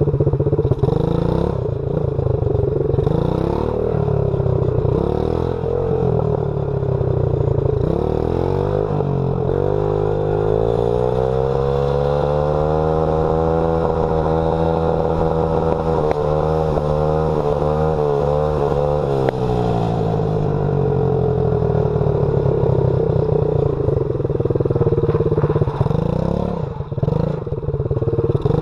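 Dirt bike engine running while riding. Its pitch climbs about a third of the way in as it speeds up, holds high, then falls away again about two-thirds of the way through.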